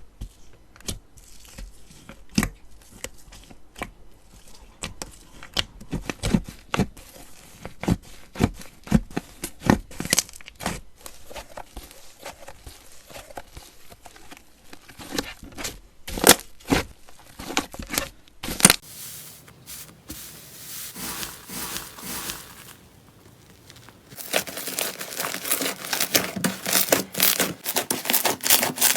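Slime being worked, giving sharp crackles and small pops. About 19 seconds in it changes to a softer, even crinkling. From about 24 seconds it becomes dense, louder crackling.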